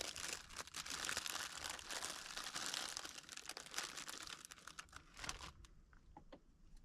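Plastic packaging crinkling as it is handled, a dense crackle of small clicks for about five seconds, then only a few soft clicks.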